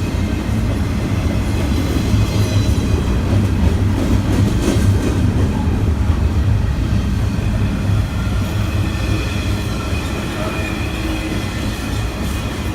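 A train running past close by: a steady, loud rumble of wheels on rail, with faint high squealing tones coming in about two-thirds of the way through.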